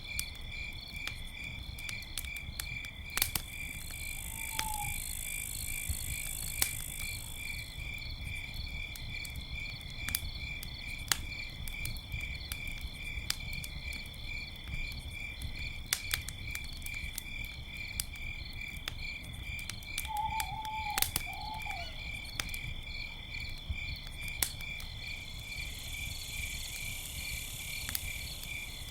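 Campfire crackling with scattered sharp pops over a low steady rumble, against crickets chirping in a fast, even pulsing rhythm. A few short calls sound briefly about 5 seconds in and again around 20 seconds in.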